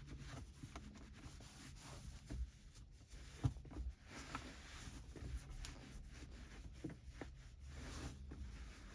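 Microfiber cloth wiping and rubbing over a car's interior surfaces, with scattered light taps and clicks and one sharper knock about three and a half seconds in.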